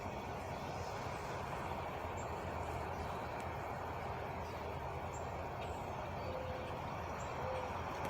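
Truck engine idling with a steady low rumble. A few faint, short high chirps sound over it.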